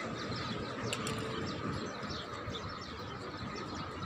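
Small birds chirping over and over, many short quick falling chirps, over steady low background noise.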